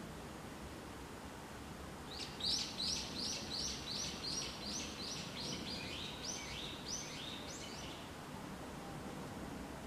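A bird singing a quick run of about fifteen repeated high notes, some two or three a second, the later notes slightly lower, over a steady faint hiss.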